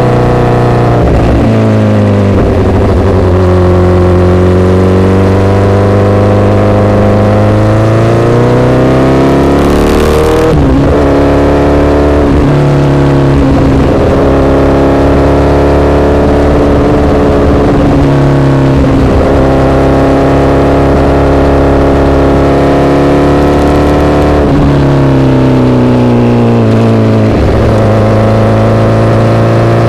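Honda CBR1000RR's inline-four engine through an SC-Project aftermarket exhaust, ridden under varying throttle. Its pitch climbs steadily for several seconds, drops sharply about a third of the way in like an upshift, then rises and falls repeatedly.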